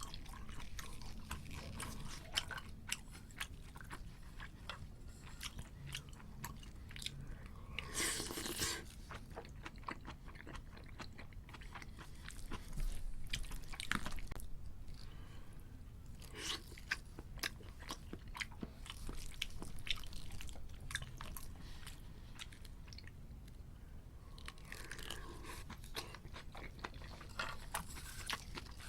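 Close-miked chewing and biting of crunchy food in an eating ASMR recording: a steady run of crisp crunches and mouth sounds, with a few louder, denser bouts of crunching.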